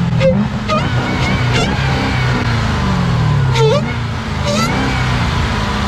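Car engines running at idle, with slow revs whose pitch sinks and climbs again over a second or so, under scattered background voices.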